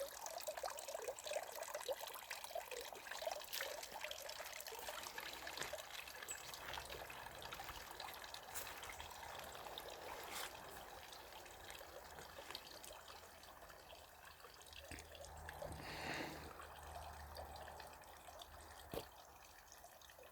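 Water trickling and splattering down a three-tier garden cascade, a continuous babble of small splashes, with a brief swell about three-quarters of the way through.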